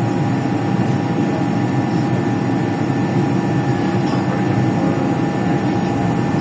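Steady low rumble of a moving vehicle, with a constant faint whine over it.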